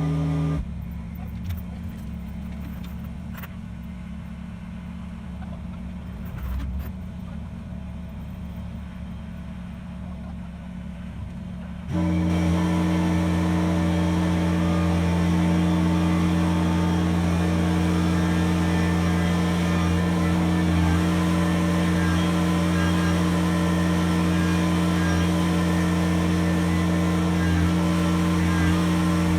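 The Kubota BX23s tractor's three-cylinder diesel engine running at a steady speed. For roughly the first twelve seconds it is quieter and muffled, then suddenly louder and fuller.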